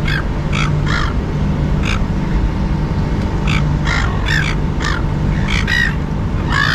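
A flock of silver gulls calling, a dozen or so short harsh cries in quick succession, over a steady low hum.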